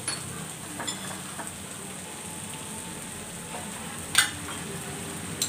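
Ground pork and tomato sizzling steadily in a wok, with a few light clinks of jars and utensils against a bowl, the sharpest about four seconds in.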